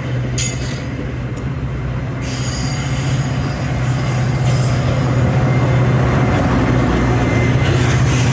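Metra diesel commuter train running close by, its locomotive engine giving a steady low drone, with thin high-pitched metallic squealing from the wheels setting in about two seconds in as the sound slowly grows louder.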